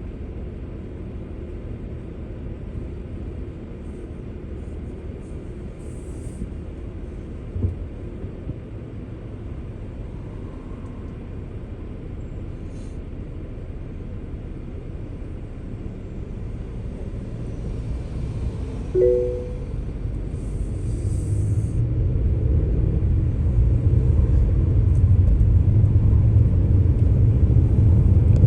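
Car road and engine noise: a steady low rumble that grows louder over the last third, as the car picks up speed. A short two-note beep sounds about two-thirds of the way through.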